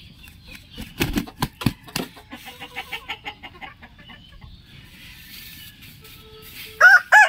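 Chickens clucking with a quick run of sharp taps or flaps about a second in. Near the end a rooster starts a loud crow.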